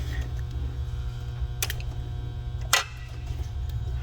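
A steady low hum with a few sharp, light clicks, twice standing out clearly.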